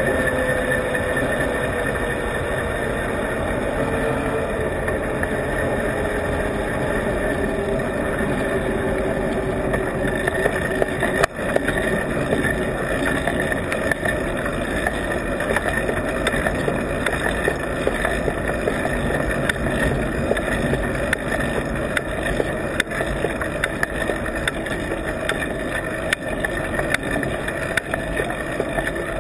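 Riding noise picked up by a camera on a bike's adhesive mount: steady wind and road rumble with small rattles and ticks from the mount. A tone falls slowly over the first ten seconds, and a single sharp knock comes about eleven seconds in.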